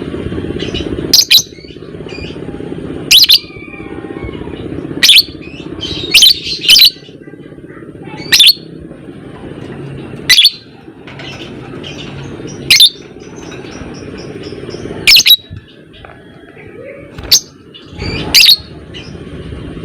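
Lovebird giving loud, shrill, short calls, about eleven of them one to two seconds apart, with fainter chirps in between, over a steady low background noise.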